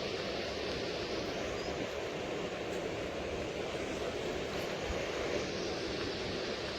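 Steady, even rushing noise with no break or rhythm.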